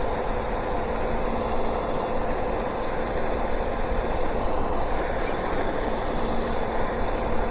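Electric bike riding along: a steady whine from its hub motors over wind rumble and tyre noise on wet pavement.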